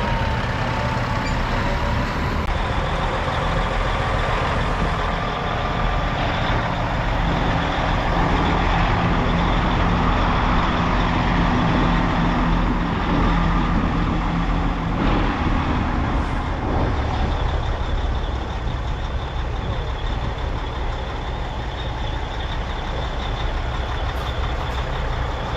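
Heavy diesel truck engines running, a steady low rumble that is a little louder from about eight to fifteen seconds in.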